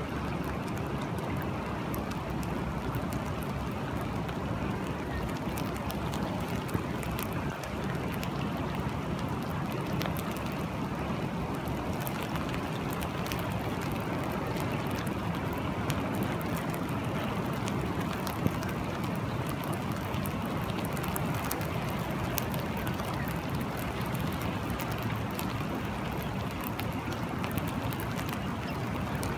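Steady rain falling, a continuous rushing hiss with scattered sharp drop ticks.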